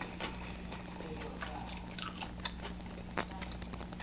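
A person chewing food with the mouth closed, close to the microphone: soft, wet mouth clicks, with one sharper click about three seconds in.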